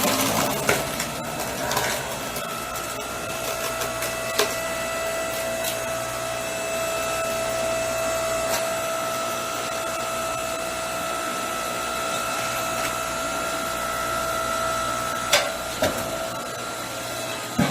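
TIYA 65575-E electric hydraulic log splitter, its 2300 W motor and hydraulic pump running under load with a steady whine and hum as the ram forces through an oversized log. A few sharp cracks break in, the loudest about fifteen seconds in.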